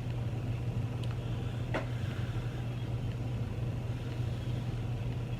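A steady low hum, with two short clicks from eating, about a second and just under two seconds in.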